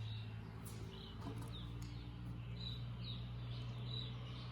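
A small bird chirping repeatedly in short, high notes over a steady low hum.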